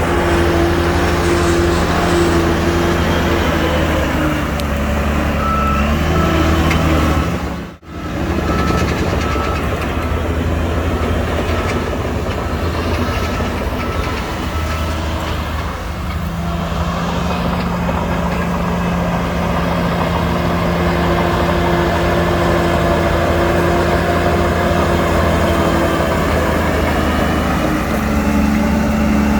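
Heavy diesel earthmoving machinery running under varying load, engine pitch shifting up and down, with a reversing alarm beeping in a steady repeating pattern for part of the time. The sound drops out briefly about eight seconds in.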